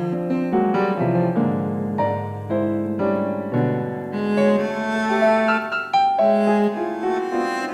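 Electronic keyboard played solo in an improvisation: overlapping chords and melody notes that change every half second or so, over held low bass notes.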